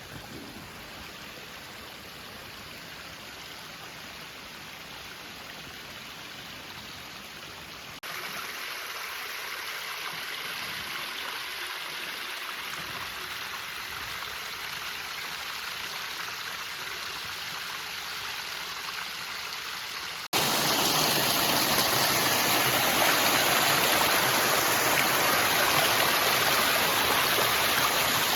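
Rushing water of a mountain stream running high after rain: a steady, even noise that jumps louder abruptly about a third of the way in and much louder about two-thirds in, as if closer to the falling water.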